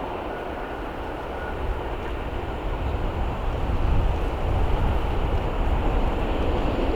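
Steam-hauled train approaching, its rumble growing steadily louder.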